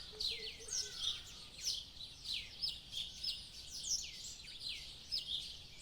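Several wild birds chirping and calling in the early morning, many quick high downward-sweeping chirps overlapping throughout.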